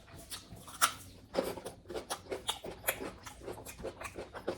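Close-miked chewing of a mouthful of spicy pork curry and rice: irregular wet mouth clicks and smacks, several a second.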